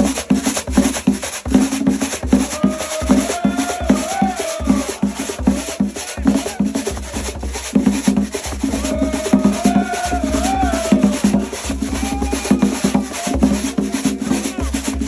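Atabal (palos) drums playing a steady festival rhythm, with a high rattling percussion keeping an even pulse of about four strokes a second. A voice sings over the drums at times.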